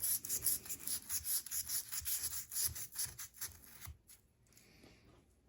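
Folded sandpaper rubbed quickly back and forth down the blade channel of an old Case pocketknife, scratching against the brass liners and the inside of the backspring in several short strokes a second. The strokes stop about four seconds in.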